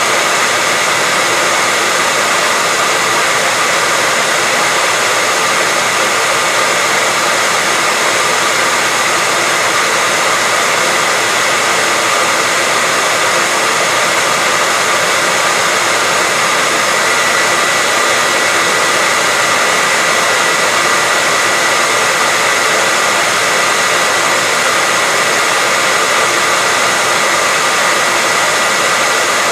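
Hairdryer running steadily: an even, unbroken rush of air and motor noise with a faint steady whine in it.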